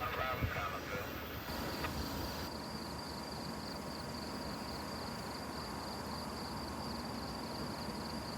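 Chorus of insects chirping, a steady fast-pulsing high trill. It takes over about a second and a half in, after a brief tail of train noise.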